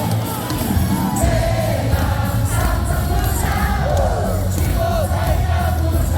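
Baseball stadium crowd singing a cheer song along with amplified music, with heavy bass underneath.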